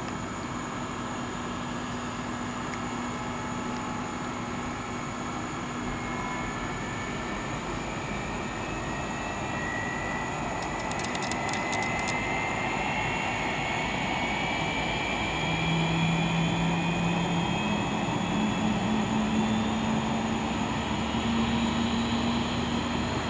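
Boeing 777-222 turbofan engine spooling up during engine start, its whine rising slowly and steadily in pitch over a steady running hum. A short burst of ticking comes about eleven seconds in.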